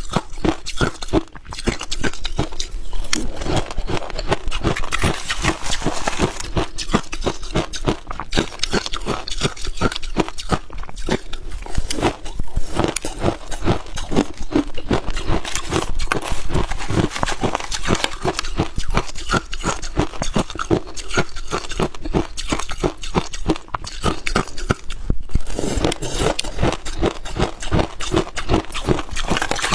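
Freezer frost being bitten and chewed close to the microphone: continuous, rapid crunching.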